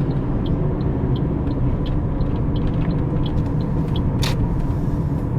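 Steady road and engine rumble inside the cabin of a moving Hyundai Sonata, with one short click about four seconds in.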